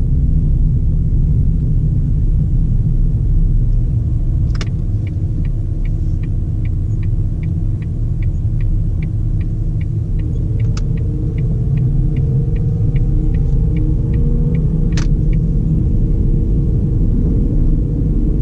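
Cabin sound of a 2009 Ford Fiesta 1.4 automatic driving, with a steady road and engine rumble. About four and a half seconds in a click is followed by the turn indicator ticking evenly, a little under three ticks a second, for about ten seconds, and another click ends it. Meanwhile the engine note rises in pitch.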